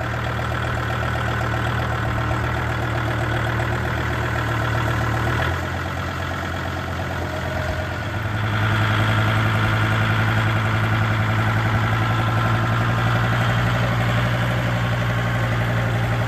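Kubota L3750 compact tractor's diesel engine running steadily, with a change in engine speed about five seconds in and a louder, higher-pitched run from about halfway.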